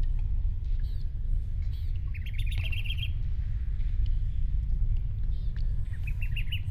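A small bird chirping in quick runs of short high notes, once about two seconds in and again near the end, over a steady low rumble.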